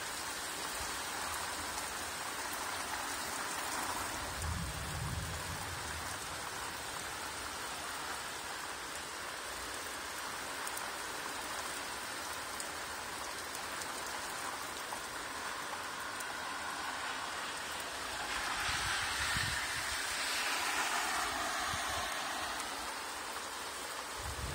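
Steady rain falling, an even hiss of drops. About three-quarters of the way through, a louder swell of noise rises and fades over a few seconds, and brief low rumbles come about five seconds in and again at the end.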